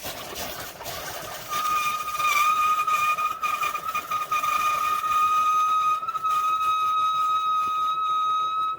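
Amazon Basics single-serve K-Cup coffee maker brewing: a hiss with a steady high whistle that sets in about a second and a half in, sounding like a subway.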